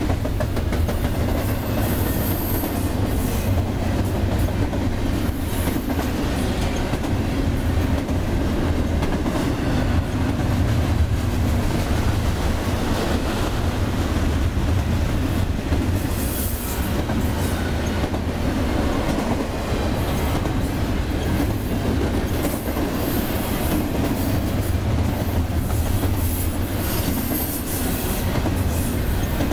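Double-stack intermodal well cars rolling past on steel rails: a steady rumble with clickety-clack of the wheels, and brief high-pitched wheel squeals now and then.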